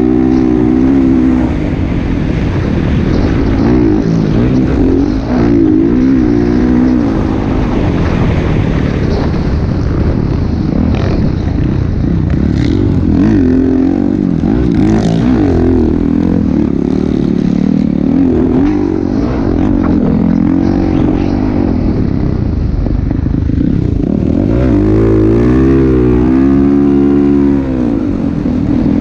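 Motocross bike engines running, their pitch repeatedly rising and falling. Near the end one engine is louder and climbs steeply in pitch, then falls away.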